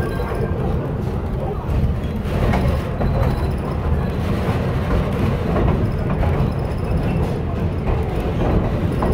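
Heritage tourist train in motion, heard from inside a passenger coach: a steady low rumble of the wheels running on the rails.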